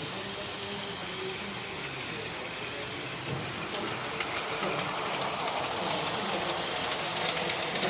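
Plarail toy trains running on plastic track: a steady whirring clatter of small motors and wheels, with fine rapid clicking that grows louder about four seconds in.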